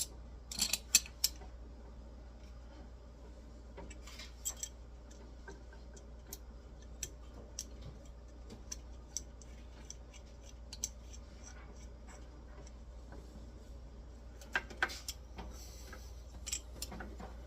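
Small metallic clicks and taps of nuts, a bolt and hand tools being handled while an espresso machine is reassembled. A cluster of clicks comes near the start and another near the end, with single ticks between, over a faint low hum.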